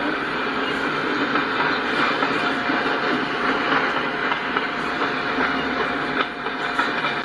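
Freight train cars rolling past: a steady rolling noise of steel wheels on rail, with light repeated clicks.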